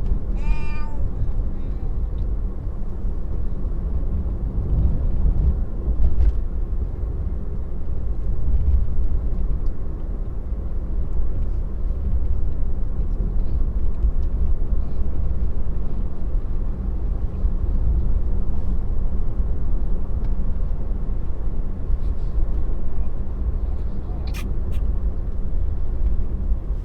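Steady low tyre and road rumble heard inside the cabin of an electric Tesla driving on wet pavement, with scattered faint ticks and one sharp click near the end.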